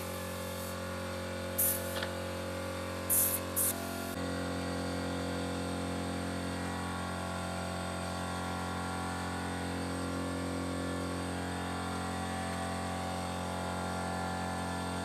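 A steady mechanical hum, with short loud hisses of spray or air about four times in the first four seconds.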